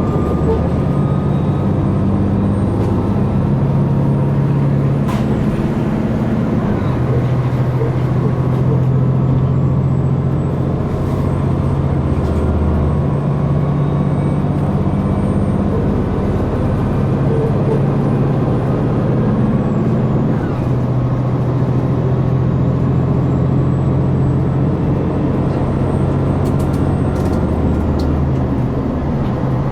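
Diesel engine of a KiHa 261 series express railcar running under power, heard inside the passenger car as a steady drone over the rumble of the train on the rails. The engine note shifts in pitch a few times.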